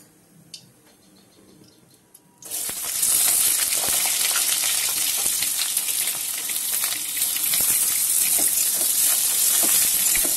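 Eggplant chunks hitting hot mustard oil in an aluminium kadai: about two and a half seconds in, a loud sizzle starts suddenly and carries on as a steady frying hiss with fine crackling. Before that there are only a few faint clicks.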